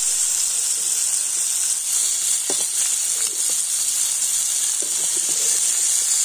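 Tiger prawns frying in hot oil in a wok, a steady high sizzle, as the prawns finish frying.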